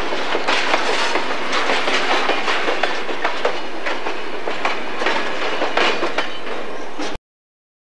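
Freight cars of a grain train rolling past, their wheels clicking irregularly over the rail joints under a steady rattle of the cars. The sound cuts off suddenly near the end.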